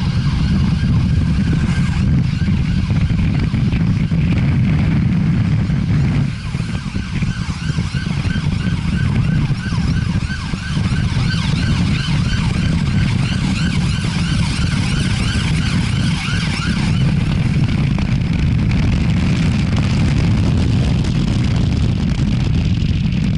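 Wind and road rumble on a helmet-mounted action camera riding through city traffic, with a wavering siren sounding behind it, strongest through the middle of the stretch.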